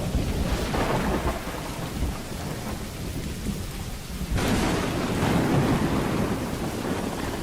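Thunderstorm: steady rain with low rolling thunder, and a louder peal of thunder breaking about four seconds in.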